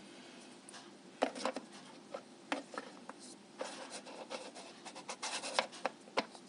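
Plastic lid of a mini humidifier being twisted left then right to seal it shut: scraping of plastic on plastic with scattered clicks, busiest in the second half.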